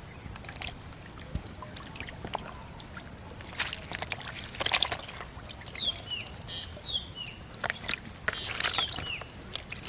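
Shallow water splashing and sloshing in irregular bursts, loudest about four to five seconds in and again near the end. Several short, high, falling chirps sound about six and nine seconds in.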